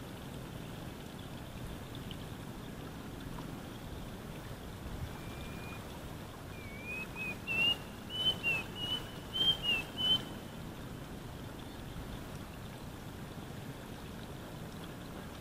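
A bird singing a run of about a dozen short whistled notes, each sliding up or down, starting about five seconds in and ending about ten seconds in, over steady low background noise.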